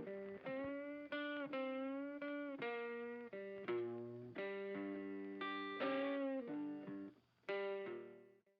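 Background music: an electric guitar playing a run of sustained notes, some with bending pitch, that fades out just before the end.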